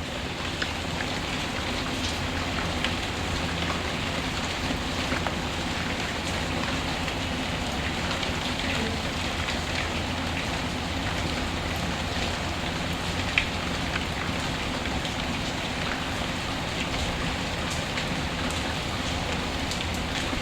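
Steady rain falling, mixed with the scattered small crackles of a wood fire, with one sharper pop about thirteen seconds in.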